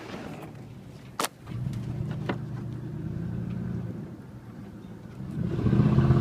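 Dodge Ram 1500 pickup's engine revving as it is driven fast through muddy ruts, heard from the truck bed. It picks up about a second and a half in and gets louder near the end. There are two sharp knocks, at about one and two seconds in.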